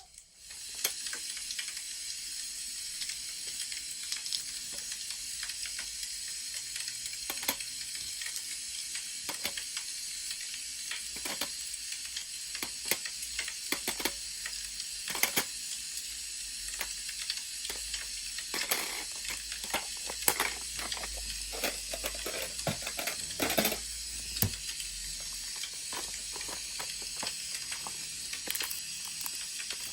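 Wood fire crackling: a steady hiss with irregular pops and snaps, and a run of louder snaps about two-thirds of the way through.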